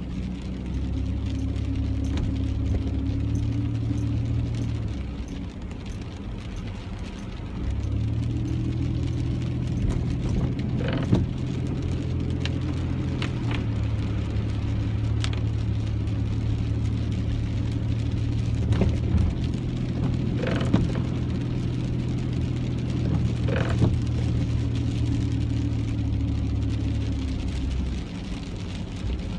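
Car driving in the rain, heard from inside: a steady low road and engine rumble that eases off for a few seconds about five seconds in and again near the end, with a few scattered sharp knocks.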